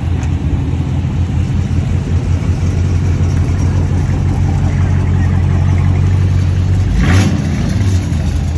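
Dodge Charger's 5.7-litre Hemi V8 running through its new exhaust with a steady, deep drone. About seven seconds in there is a brief louder burst of noise.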